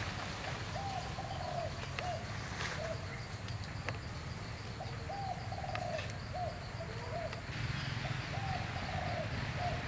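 A bird calling in the background, three phrases of low notes about three to four seconds apart, each a longer note followed by two or three shorter ones, over a steady low rumble.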